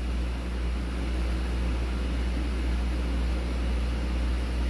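Steady low rumble with an even hiss, unchanging throughout.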